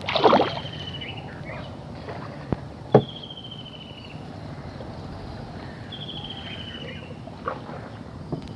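A bird repeats a short, high, descending trill about every three seconds while a small canoe is poled through a weedy marsh. A brief noisy swish comes right at the start, and two sharp knocks come around the third second.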